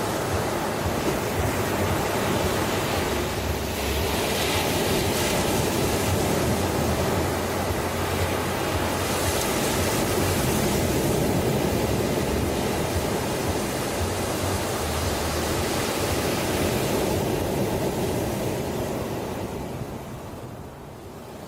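Ocean waves washing onto the shore in a continuous surf hiss, swelling as waves break about four and nine seconds in, then easing near the end.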